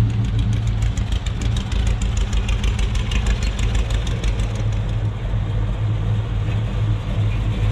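Car engine running steadily at low speed, with a fast, even ticking over the first half that fades out.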